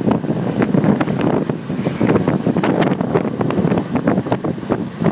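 Motorcycle ride noise picked up by a handlebar-mounted phone: a steady rush of wind and road noise on the microphone, with frequent short knocks and clicks.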